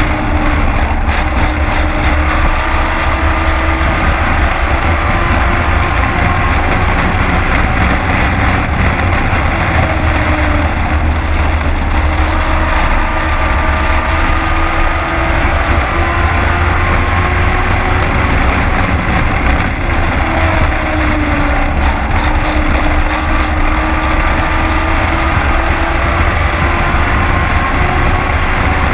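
Race truck engine heard from inside the cab at racing speed over a heavy, steady rumble. Its pitch climbs and falls in a repeating cycle as the truck runs down each straight and lifts for each turn of the oval.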